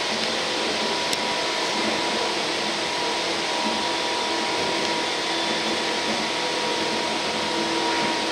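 Tokyu 8500 series electric commuter train running at steady speed, heard inside the passenger car: a continuous rumble and rush of wheels and running gear with a steady whine over it.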